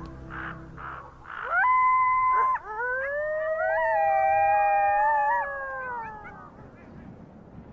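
A chorus of wild canids howling: one howl rises and holds for about a second, then several voices join in overlapping howls that hold and slowly fall away. A string of short rhythmic calls is heard in the first second.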